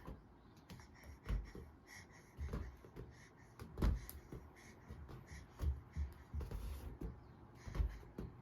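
Irregular soft thumps and knocks, roughly one a second, of a rubber balloon being batted and hit by a baby's hands.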